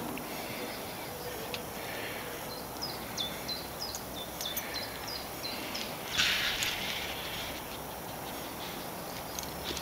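Small bird chirping: a quick run of short, high, falling notes about three to five seconds in. A brief rustle about six seconds in.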